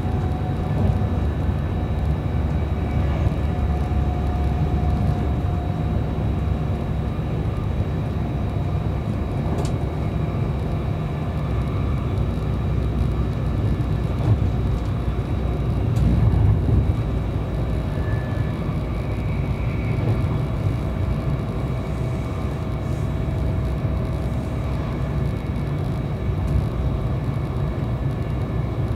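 Interior running noise of a Virgin Trains Class 390 Pendolino electric train at speed: a steady low rumble from wheels on rail, with a faint whine above it.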